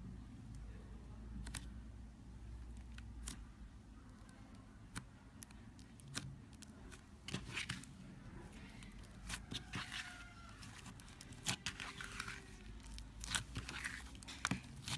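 Close-miked crackling and crinkling: irregular sharp clicks and small pops, sparse at first and busier from about halfway, over a low steady hum.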